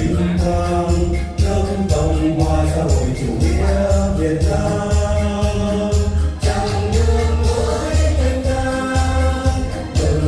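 Vocal ensemble singing a song in several voices over a backing track with a steady beat and bass.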